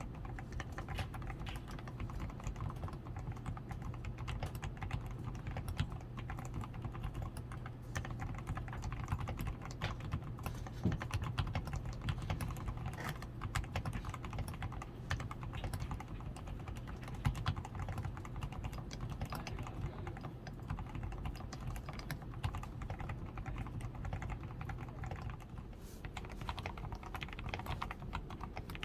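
Continuous typing on a DAREU A87 Pro mechanical keyboard: a steady, dense stream of keystrokes with a few louder strokes. The keyboard is fully lubed, with a tape-modded PCB, lubed stabilizers and XDA keycaps.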